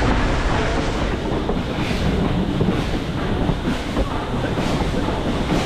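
Steady noisy rumble of a moving train, with fine irregular clatter and wind buffeting the microphone.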